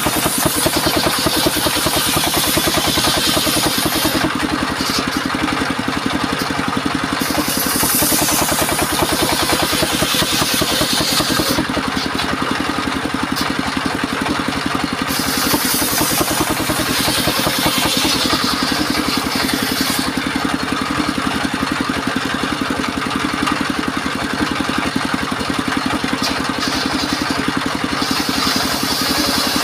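Engine of a portable circular sawmill running steadily, with spells of louder, high-pitched hiss several times as the blade rips timber into battens and rafters.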